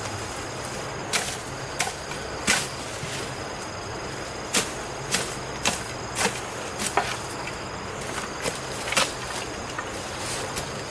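A series of about a dozen sharp knocks or taps at uneven intervals, over a steady high insect-like trill that breaks off and resumes.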